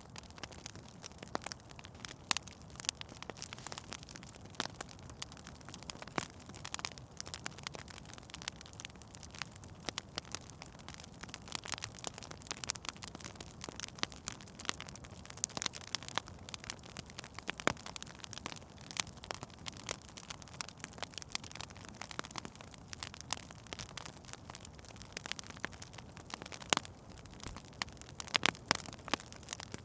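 Wood fire burning in a fireplace, crackling with frequent sharp, irregular pops over a soft steady hiss.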